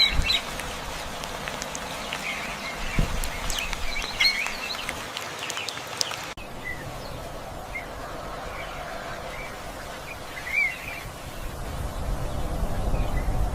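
Wild birds chirping and calling in short, scattered notes over a steady background hiss; the background changes abruptly about six seconds in.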